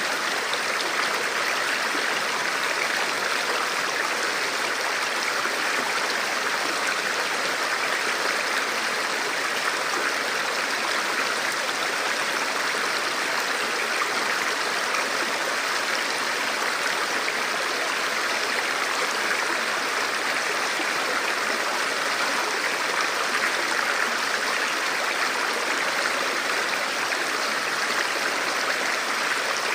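River water flowing: a steady, even rush with no single splashes standing out.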